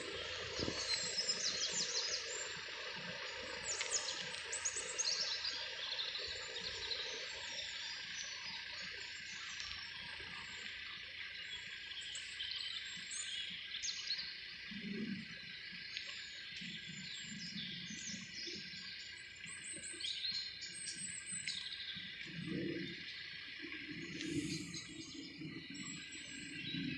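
Small birds chirping and singing in short high calls over a steady outdoor background hiss, with a few faint low murmurs in the second half.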